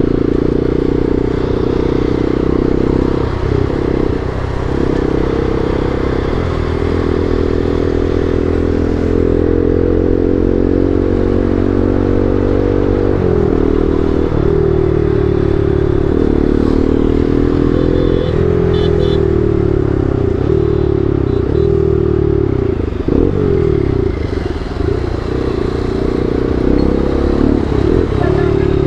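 Bajaj Pulsar NS200's single-cylinder engine running through an aftermarket Akrapovic full-system exhaust while riding. The note climbs steadily with the revs, drops sharply at shifts about 13 and 18 seconds in, then falls and picks up again with the throttle.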